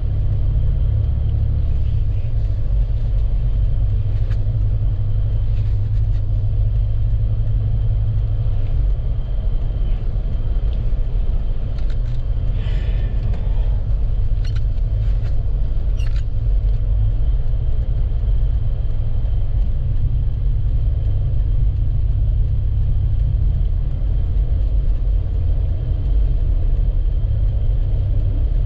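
Steady low rumble of a vehicle's engine and drivetrain, heard from inside the cab while stuck in slow traffic, with a few faint clicks near the middle.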